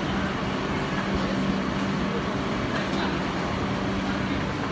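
Steady machine hum of a stationary train at a railway station, a constant low drone over a wash of station noise.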